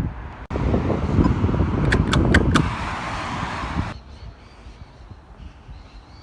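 Wind rumbling on the microphone over outdoor street noise, with four quick sharp clicks about two seconds in; after about four seconds it drops to a quieter background.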